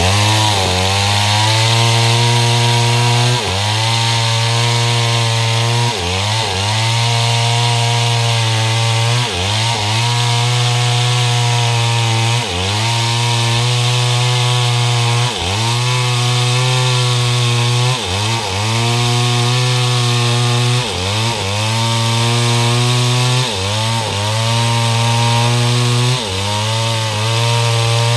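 STIHL MS 382 two-stroke chainsaw with a 30-inch bar ripping mahogany at high revs. It revs up at the start, then its pitch drops briefly and climbs back about every two to three seconds.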